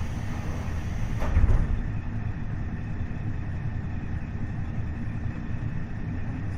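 KiHa 40-series diesel railcar (KiHa 40-524, DMF15HSA diesel engine) running along the line: a steady low rumble of engine and wheels on rail, with one louder thump about a second and a half in.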